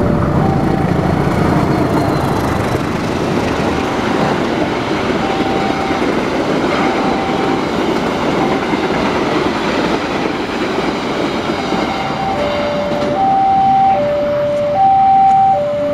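Passenger train passing close by, a steady rumble and clatter of wheels on rail. Over it a railway level-crossing alarm sounds an alternating two-tone chime, faint at first and plain in the last few seconds as the train moves off.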